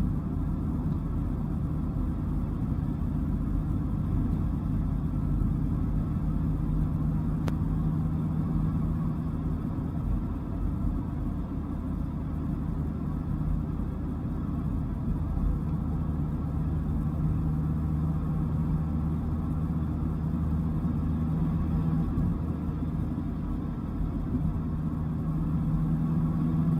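Dodge Viper's V10 engine and tyre noise at a steady cruise: a low, even drone whose pitch holds nearly constant. There is one faint click about seven seconds in.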